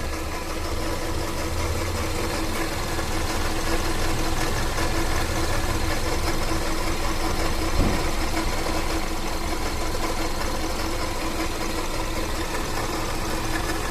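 Car engine idling with the steady mechanical noise of a failing water pump. One short knock comes about eight seconds in.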